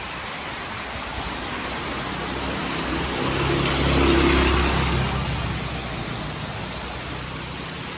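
Rain falling steadily, with a motor vehicle passing through it, its engine rising to a peak about halfway and fading away.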